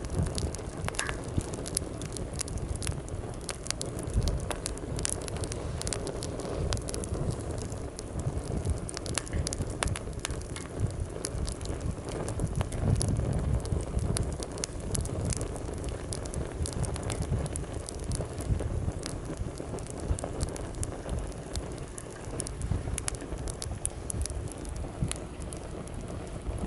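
Wood campfire crackling and popping with many sharp, irregular snaps, over a low steady rush of waves on the shore that swells briefly about halfway through.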